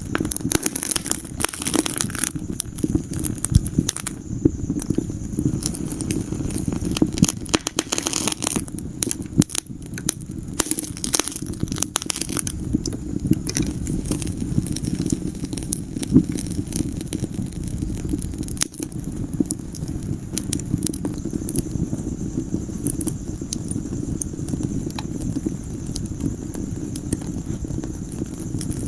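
Wood fire crackling in a fireplace: a steady low rumble of flames with frequent sharp pops and snaps, busiest in the first half.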